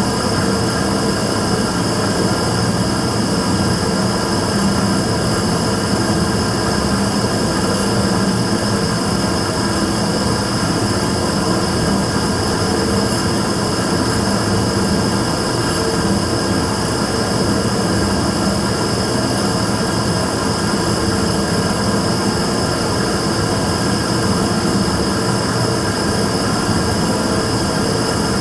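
Immersion tube burner firing steadily: a loud, unchanging rushing noise with a low hum and a high whine on top. This is the running noise flagged as abnormal.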